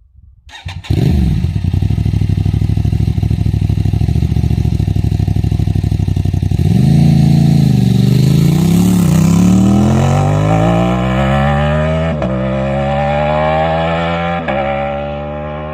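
Aprilia 660 parallel-twin motorcycle with a straight-through race exhaust. It idles from about a second in, then pulls away around seven seconds in and accelerates hard, the pitch climbing through the gears with two quick-shifter upshifts near the end.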